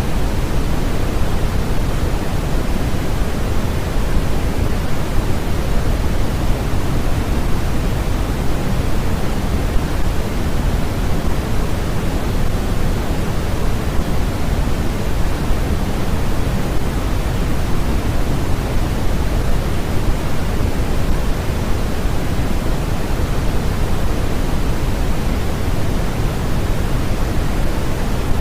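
Continuous generated noise of the white-noise kind, heavier in the low end and thinning toward the top, so it sounds closer to pink noise. Steady and unchanging.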